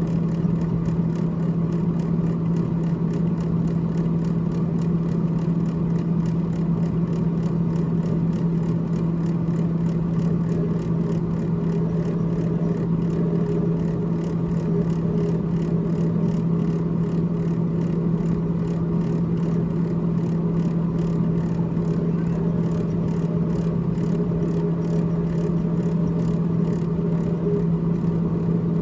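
Freezer fan of a GE GTH18XCTZRBB refrigerator running with a steady hum and whir.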